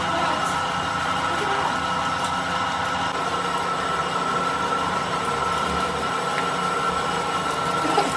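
Metal lathe running steadily: a constant machine hum with a steady high whine over it.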